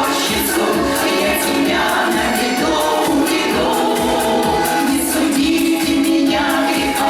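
A song performed by several voices singing together, like a choir, with instrumental accompaniment.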